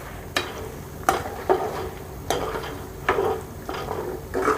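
A spoon scraping and knocking against a pan as chicken pieces and ginger are stirred in hot oil, with a light sizzle underneath. There are about seven strokes at uneven intervals.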